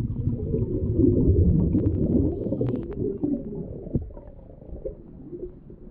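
A scuba diver's exhaled breath bubbling out of the regulator underwater: a low, gurgling rumble that swells, holds for about three seconds with a few small clicks, then fades.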